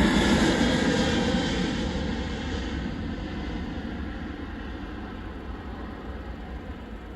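Airbus A320neo airliner's jet engines as it passes and moves away, the noise fading steadily.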